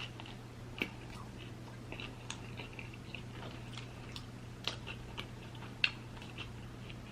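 Close-miked chewing of food, with soft wet mouth clicks and smacks and a couple of sharper clicks, one about a second in and one near six seconds. A steady low hum runs underneath.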